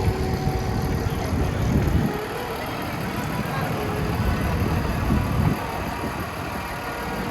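City street traffic: a steady rumble of vehicle engines and tyres, swelling briefly a couple of times.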